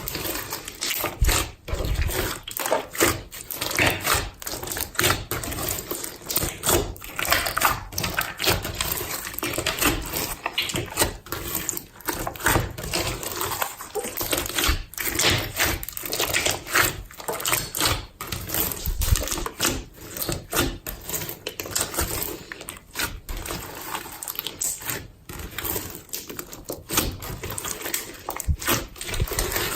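Old slimes being mixed into a slime smoothie by hand: squished, pressed and stretched, giving a steady run of irregular wet clicks and crackles.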